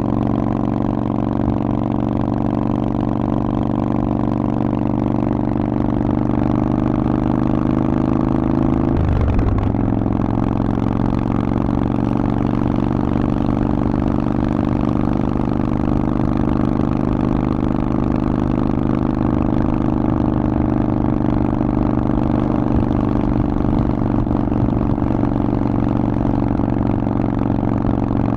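Harley-Davidson Forty-Eight's air-cooled V-twin running steadily through a Vance & Hines exhaust. About nine seconds in, the engine note dips briefly, then settles back to the same steady note.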